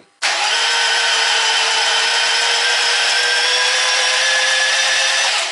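Starter motor cranking a Niva engine with its spark plugs removed. It gives a steady whine, rising slightly in pitch, for about five seconds, then cuts off. This is a first crank to build oil pressure before the engine is started.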